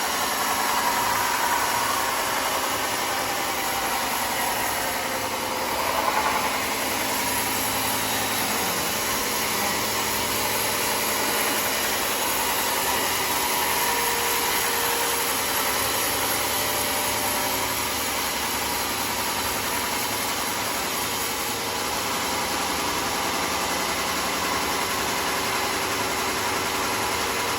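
Sawmill machinery running steadily, with a brief louder swell about six seconds in.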